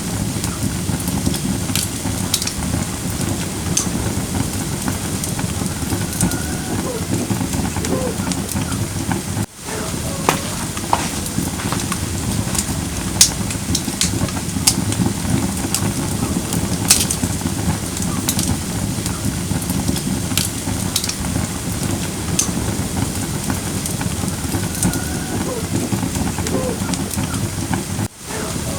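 Firewood burning in a fire bowl: a steady low rush of flame with sharp crackles and pops from the wood scattered throughout.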